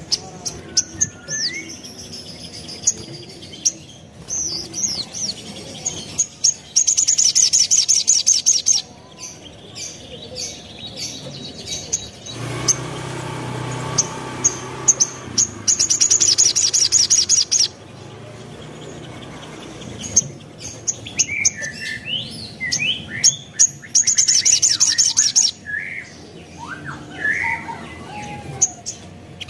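Little spiderhunter (sogok ontong) calling: scattered sharp chirps and short whistles, broken three times by a rapid trill of high repeated notes lasting about two seconds. A low steady hum sits under the calls for several seconds midway.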